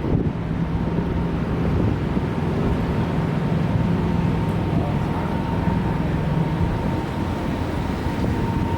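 Tour boat's motor running steadily underway: a low hum with a faint, thin, steady whine above it, plus some wind on the microphone.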